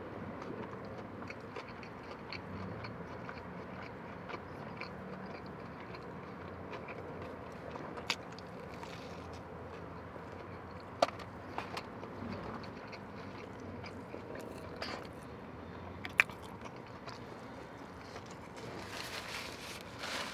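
A person chewing a chicken tender sandwiched in Texas toast, with wet mouth sounds and a few sharp clicks. A papery rustle of a napkin wiping the mouth comes near the end.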